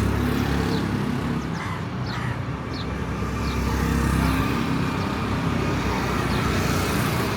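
Street traffic: the steady rumble of motor vehicle engines running and passing, with a few brief high chirps over it.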